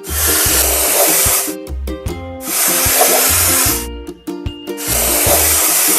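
Three long hisses of spray paint, each lasting a second or more, as a spray can paints over discoloured spots, over a children's music tune with a steady bass beat.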